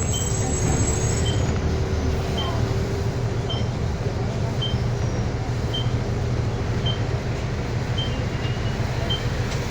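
City bus running in traffic, heard from inside the cabin: steady engine and road rumble, with a short high beep repeating about once a second.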